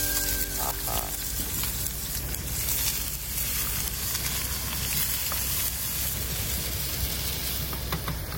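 Potato dosa filling frying in a pan, a steady sizzle.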